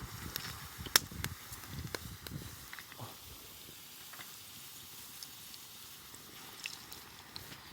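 Wood campfire crackling, with sharp pops and a few low knocks in the first three seconds, then a quieter steady hiss with occasional ticks.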